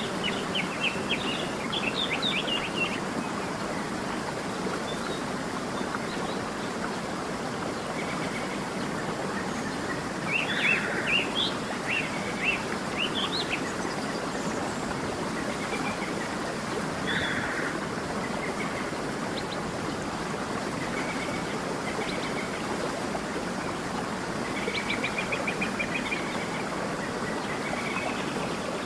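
Steady rush of flowing water, with small birds chirping over it in short bursts: a quick run of chirps at the start, another cluster about ten to thirteen seconds in, and a rapid trill near the end.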